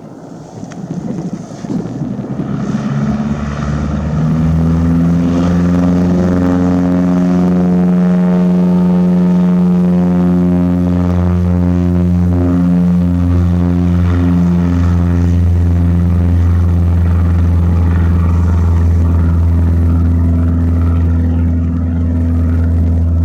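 Propeller aircraft running close by. It builds up over the first four seconds into a loud, steady drone with a strong low hum, and the pitch holds without sliding.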